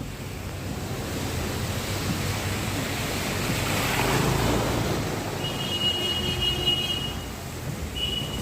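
Heavy rain pouring down in a steady rushing hiss that swells about halfway through. A high steady tone sounds for over a second and briefly again near the end.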